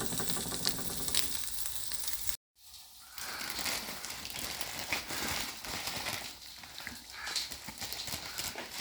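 Food sizzling as it fries in a pan, with small utensil clicks. The sound cuts out for an instant about two and a half seconds in, then the frying and handling noises carry on more quietly.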